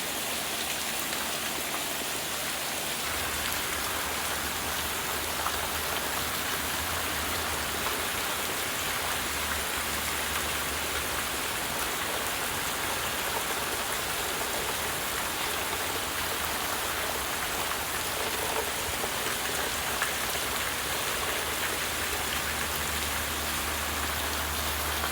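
Heavy rain pouring down steadily, an even hiss of rain hitting surfaces. A faint low rumble comes and goes beneath it.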